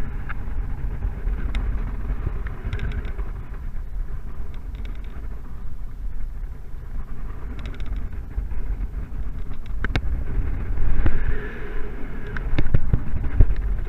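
Strong wind rushing and buffeting over the microphone in flight, a low rumble that swells in gusts about 11 and 13 seconds in, with a few short clicks.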